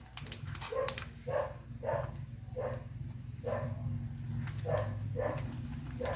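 A dog barking repeatedly in short single barks, about one every half second to second, over a steady low hum. A few crisp paper crinkles sound in the first second.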